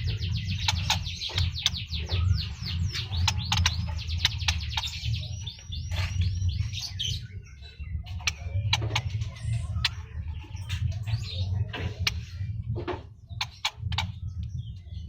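Pekin robin (red-billed leiothrix) singing: a fast run of rapid, high downward-sweeping chirps for about the first five seconds, then scattered shorter calls and sharp clicks. A steady low hum runs underneath.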